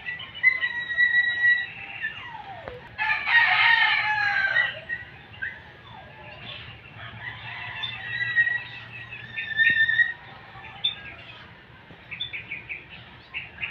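A rooster crowing once, loud and drawn out, about three seconds in, among shorter high calls and clucks from other chickens and birds.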